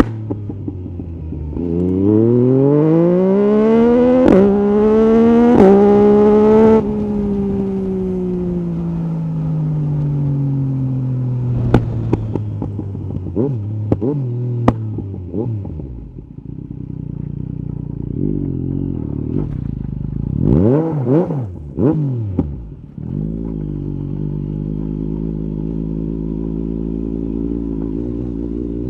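Yamaha MT-09 SP's three-cylinder engine through an Akrapovic carbon exhaust. It accelerates hard through two upshifts, then winds down slowly on the overrun with a few sharp pops. About two-thirds of the way in come a couple of quick throttle blips, and then it runs steadily.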